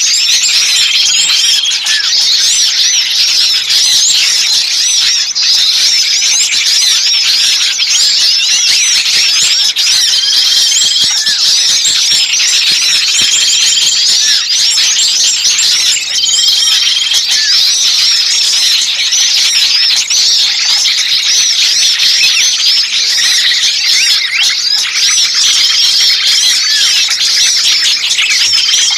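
A dense chorus of small songbirds chirping and twittering at once, with a short level whistled note recurring every few seconds: a bird-lure recording of noisy small birds with a distressed 'pinched' bird call, used to draw other birds in.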